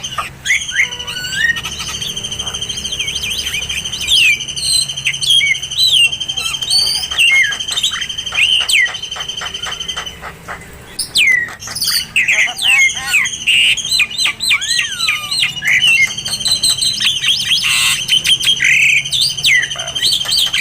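Oriental magpie-robin (kacer) song: a fast run of varied whistles, chirps and sweeping notes over a continuous high trill, used as tutor song for caged kacer. The trill stops about halfway through and comes back a few seconds later.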